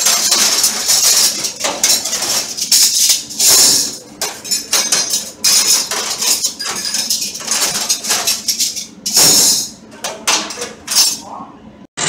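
Stainless-steel cutlery clattering and clinking rapidly as handfuls of forks, knives and spoons are sorted by hand on a steel counter. The clatter is dense and nearly continuous, then cuts off just before the end.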